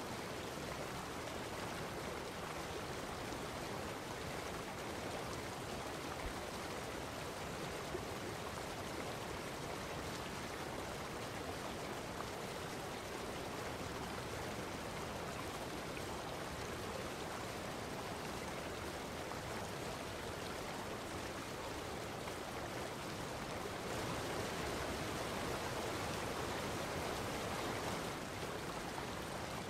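Steady rushing of flowing water, an even noise with no distinct splashes, swelling slightly louder near the end.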